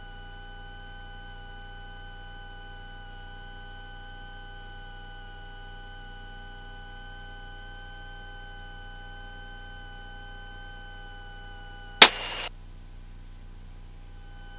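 Steady hum of several fixed tones in the Cessna 172S's cockpit intercom audio. About twelve seconds in comes one sharp loud click and about half a second of static, after which the higher tones briefly drop out.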